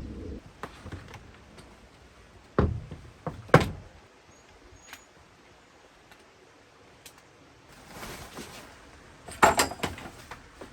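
Several sharp knocks and thuds: a few about two and a half to three and a half seconds in, and a louder cluster of clatter near the end, after a short rustle.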